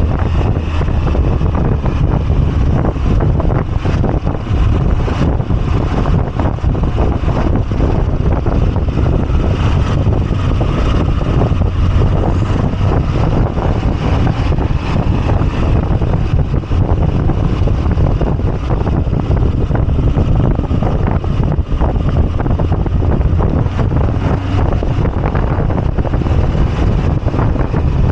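Moto Guzzi V85TT's air-cooled V-twin running steadily while riding, with wind rushing over the microphone.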